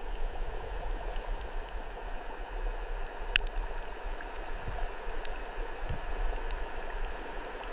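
Water running steadily, like a stream, with a few brief faint high ticks over it.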